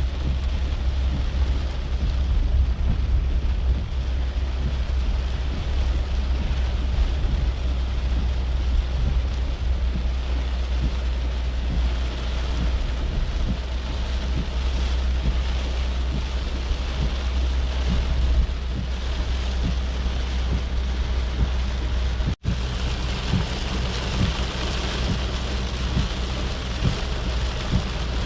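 Heavy rain with the steady low rumble of a car driving through it. The sound cuts out for an instant about 22 seconds in, and the rain hiss is stronger after that.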